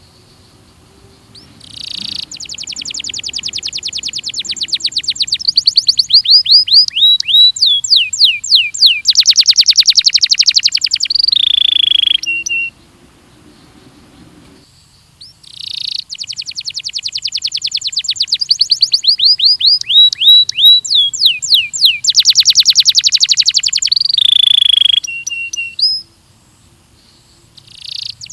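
Belgian canary singing two long song phrases. Each phrase is a fast trill of rapidly repeated notes that turns into a run of downward-sliding whistles and ends in a loud buzzy roll, with a short pause between the phrases.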